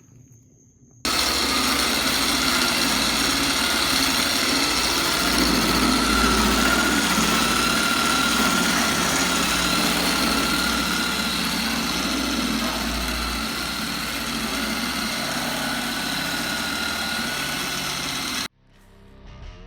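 An engine running steadily, with a thin steady whine over it. It cuts in abruptly about a second in and cuts off abruptly near the end.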